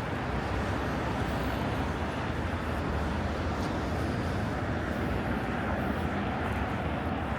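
Steady road traffic from passing cars: an even, continuous rush of engines and tyres with no sharp sounds.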